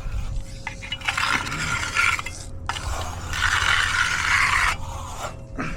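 A finishing tool scraping across fresh concrete in long strokes, about three passes: the last smoothing pass before the slab is broomed. A steady low hum runs underneath.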